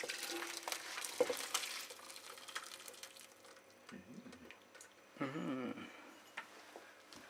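Cooked ramen and its water being transferred into a bowl: splashing liquid with light clinks over the first two seconds, fainter clicks after. A brief voice is heard about five seconds in.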